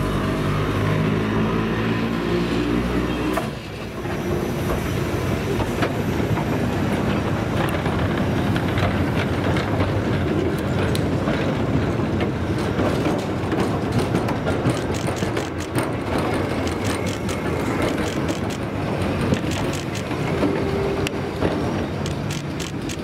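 An electric works train running close by, with a steady motor hum. After a cut about three and a half seconds in, rail-wagon wheels rumble, clatter and clank over the track, with many sharp clicks in the second half.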